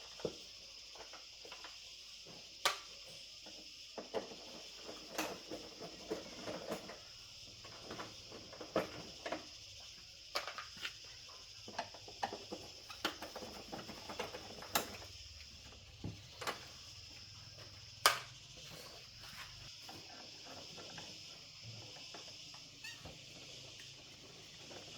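Steady high insect chirring throughout, with scattered sharp clicks and knocks, about a dozen, from handling hard objects.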